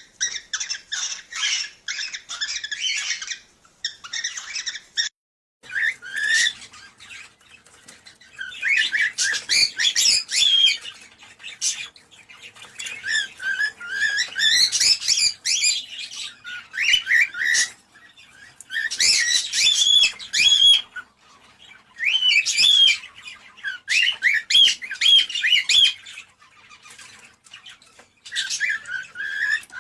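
Cockatiels chirping and giving short rising and falling whistled notes in repeated bouts a few seconds long. There is a brief break about five seconds in.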